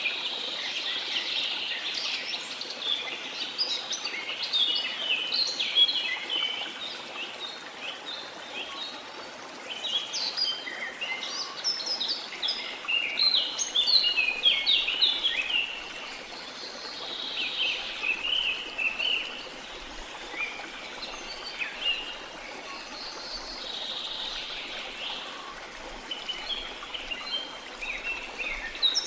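Many birds chirping and calling in flurries that come and go, over the steady rush of a waterfall.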